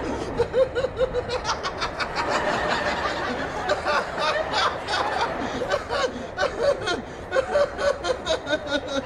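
Audience laughter: many people chuckling and snickering throughout.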